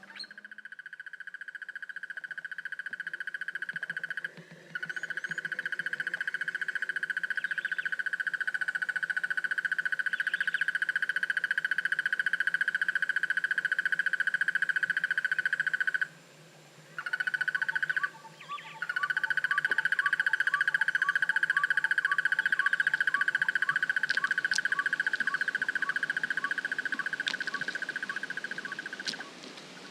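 A frog's long, steady, high-pitched trill, broken by short pauses about four seconds in and twice around the middle. A second, slower series of ticking calls joins in during the second half.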